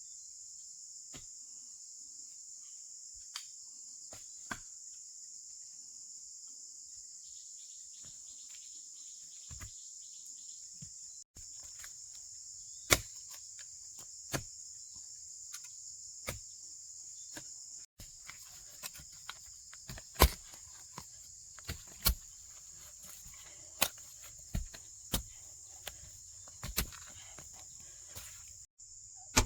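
Steady high-pitched chorus of insects such as crickets or cicadas, with scattered sharp knocks and snaps that come more often and louder in the second half.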